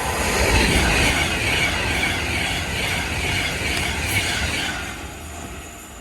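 A train passing at speed, its rushing wheel and rail noise loudest about a second in, then fading away.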